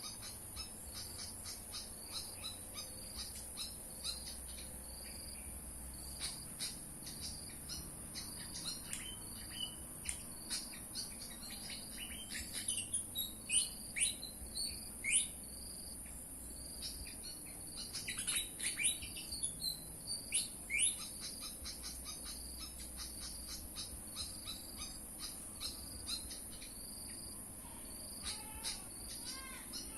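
Pied fantail song: a run of quick, high whistled chirps, many falling in pitch, thickest about halfway through. A steady high insect buzz runs underneath.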